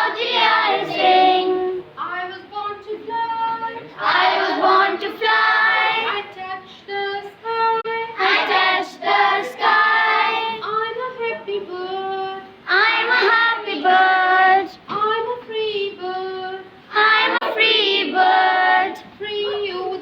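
Children singing a song together, phrase after phrase with short breaths between.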